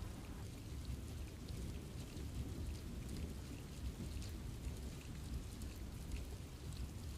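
Steady rain falling in a forest, with many separate drops ticking on leaves and trees over a constant low rumble.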